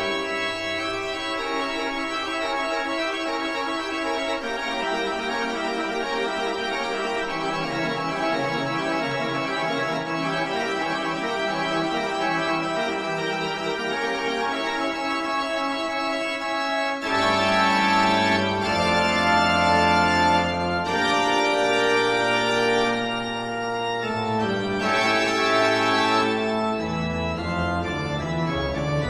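Slow organ music with sustained chords that change every few seconds, growing fuller and louder about two-thirds of the way through.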